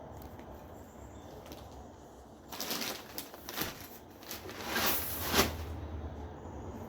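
Bird seed pouring and spilling out of an unclipped bag onto the floor, heard as several rustling, hissing surges from about two and a half seconds in.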